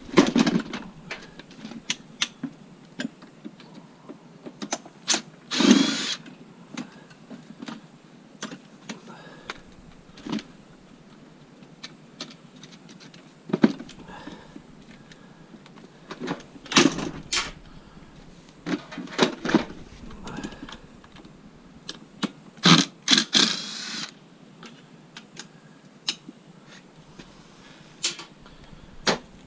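Scrap metal being dismantled by hand: irregular clanks, knocks and scrapes of metal parts, with a couple of louder half-second bursts about six seconds in and again near the end.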